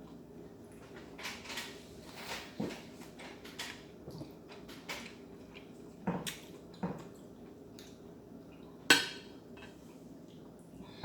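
Close-miked eating at a seafood meal: scattered clicks and clinks of utensils and seafood shells against a plate, with one sharp, loud crack about nine seconds in.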